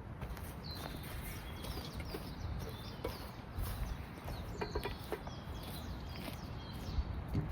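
Wild birds chirping and singing over a steady low background noise, with a few faint clicks in the middle.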